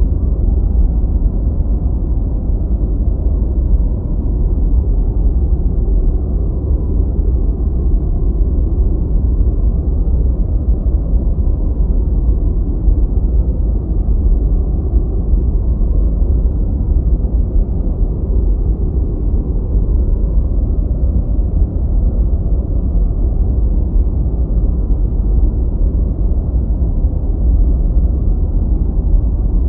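Deep white noise playing steadily: an even, low, muffled rush with most of its weight in the bass and no high hiss.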